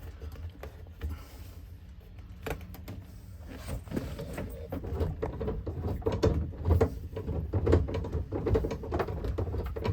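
The gear lever of a 1971 VW bus being worked through the gears with the engine off: irregular clunks and clicks from the shift linkage, sparse at first and coming thick and fast from about four seconds in. This is a check of whether it now goes into every gear after a shift plate adjustment.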